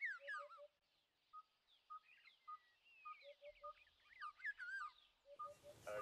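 Faint birdsong: a short whistled note repeated about twice a second, little groups of three lower notes, and quick falling, curling whistles from other birds.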